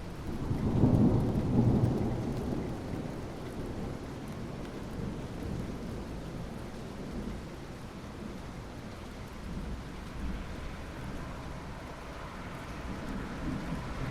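Steady rain with a roll of thunder that swells about a second in and rumbles away over the next several seconds.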